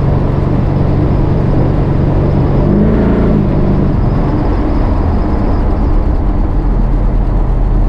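A motor vehicle's engine runs steadily and loudly, with a short rise and fall in pitch about three seconds in.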